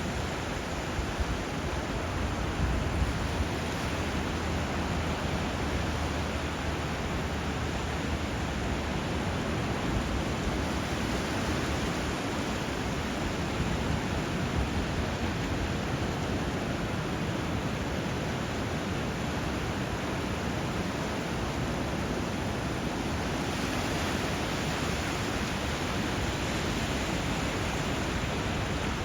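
Steady rush of river water meeting surf, an even hiss with no breaks or wave rhythm, with a low rumble underneath for the first several seconds.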